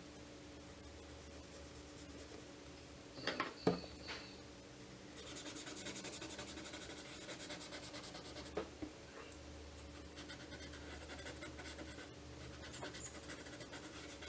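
Pencil shading on sketchbook paper: a couple of sharp clacks about three seconds in, then rapid back-and-forth scratching strokes for several seconds.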